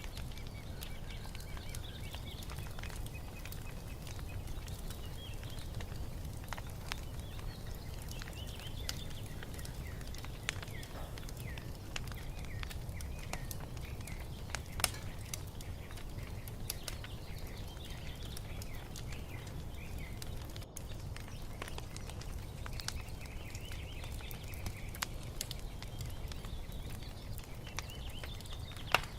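Wood fire crackling with scattered sharp pops over a steady low rumble, while small birds chirp and twitter in short phrases throughout.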